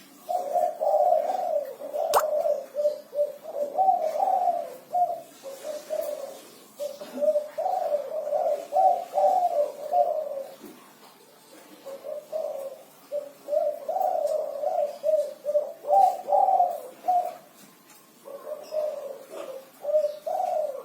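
Spotted dove (derkuku) cooing: repeated phrases of rhythmic coos in four bouts with short pauses between them. It is a 'kuk 5' singer, whose song ends in five 'kuk' notes and is kept steady. There is a single sharp click about two seconds in.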